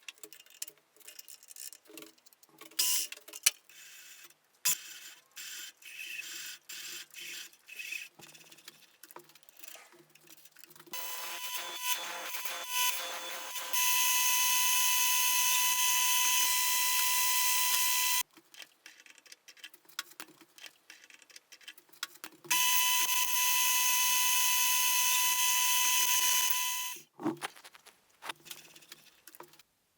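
Scattered clicks and knocks of metal parts being handled, then an electric power tool's motor runs with a steady high whine, twice, for about five to seven seconds each time, stopping abruptly.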